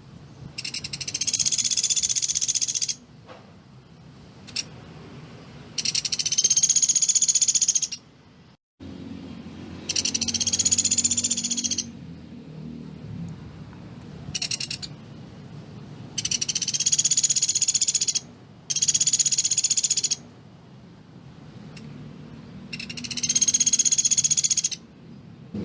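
Pelatuk beras woodpecker calling: a rapid, densely packed rattling trill in high-pitched bursts of about two seconds. The bursts repeat every four to five seconds, with a few shorter ones in between.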